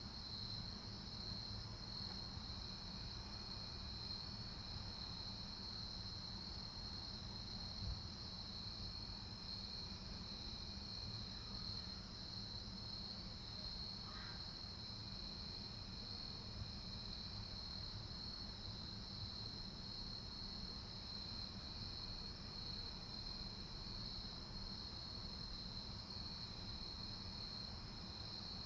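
Steady, high-pitched chorus of insects such as crickets, with a fainter trill coming and going every few seconds. A brief faint chirp about 14 seconds in.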